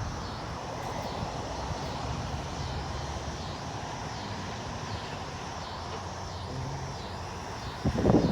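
Outdoor ambience as a thunderstorm approaches: a steady low rumble of wind with a faint high call repeating about every half second. Near the end a louder gust of wind buffets the microphone.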